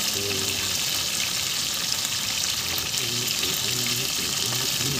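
Fish frying in hot oil in a pan, a steady sizzle, as the pieces are turned over with metal tongs.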